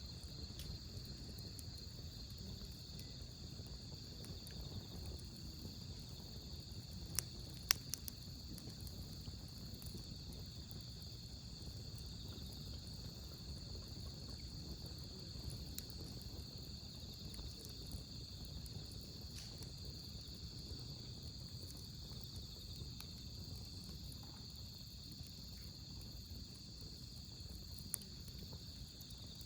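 Wood campfire burning with a low steady rustle and a few sharp pops, a cluster about seven seconds in and one near the end. Autumn crickets chirp steadily underneath.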